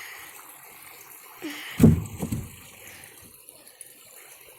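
Faint trickling water, with a brief low thump just under two seconds in.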